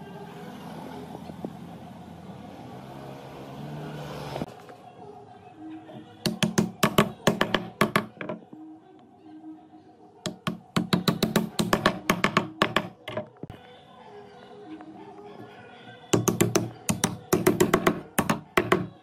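Three runs of rapid hammer blows on wood, about five a second, over background music. Before them comes about four seconds of a steady hiss that cuts off suddenly.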